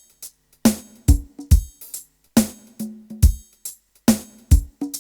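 Instrumental music: a drum beat of sharp hits with a deep kick, in uneven groups of two to three strokes, some of them followed by a short low note.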